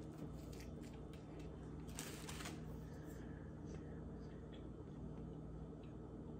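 Quiet chewing of a bite of chicken biscuit sandwich, with small clicks and a brief rustle about two seconds in, over a faint steady hum.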